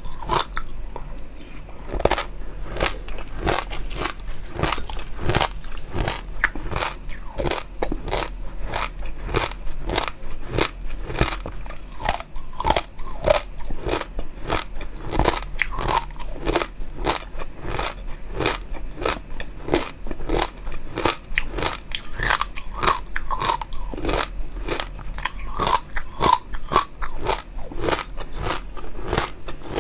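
Close-miked eating: steady crunchy chewing and biting, about two to three crunches a second, as in a mukbang.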